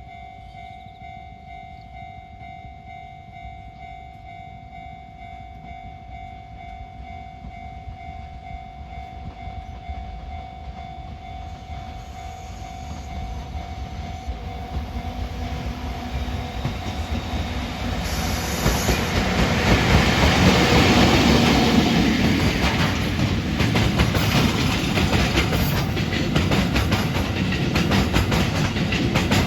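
A freight train on the Tokaido Main Line approaches and grows steadily louder. From about eighteen seconds in it passes close by, with the rumble of wheels on rail and the clatter of the wagons.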